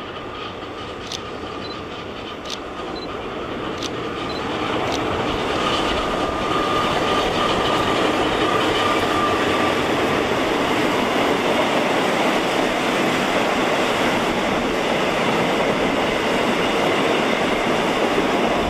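Diesel-hauled passenger train approaching and passing close by, its coaches' wheels rolling on the rails. The noise builds over the first six seconds, then holds steady and loud; a thin steady whine stops about ten seconds in.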